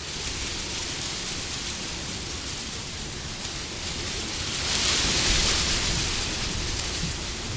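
Wind blowing as a steady rushing noise, swelling into a louder gust about five seconds in and then easing back.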